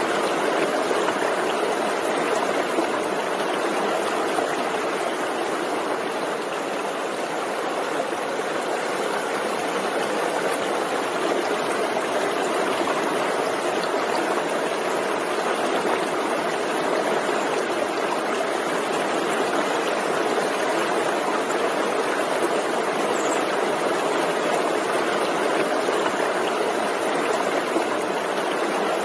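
Forest stream flowing over rocks: a steady rushing and babbling of running water.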